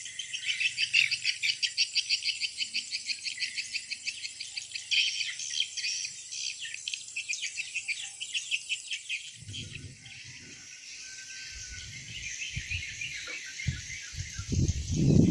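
Swiftlets twittering in rapid, evenly repeated high chirps, about four a second, that fade out a little over halfway through. Low rumbles come in after that and are loudest near the end.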